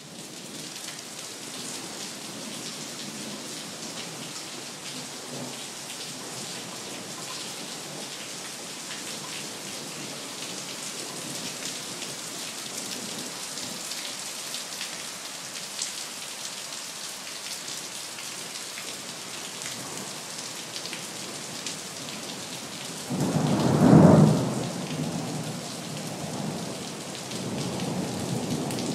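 Steady rain falling, with a loud clap of thunder about 23 seconds in that rumbles off, and another roll of thunder near the end.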